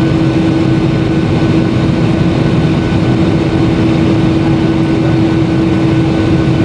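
Boeing 737-800's CFM56 turbofan jet engines running steadily at high power: a loud, even noise with a constant hum through it.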